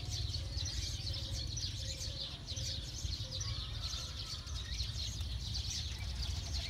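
Many small birds chirping continuously in a dense, overlapping chorus, over a steady low rumble.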